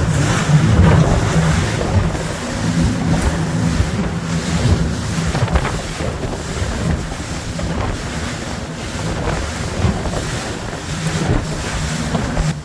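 Speedboat under way: its engine runs with a steady hum under the rush of water against the hull, and wind buffets the microphone. The sound drops away near the end.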